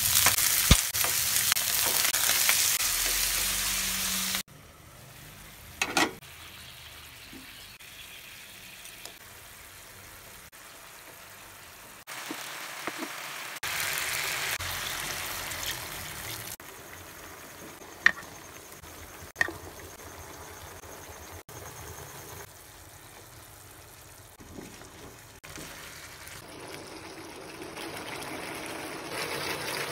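Raw chicken pieces hitting hot oil in a frying pan and sizzling loudly for about four seconds, cutting off suddenly. Then quieter frying and simmering in the pan, with a few sharp clicks.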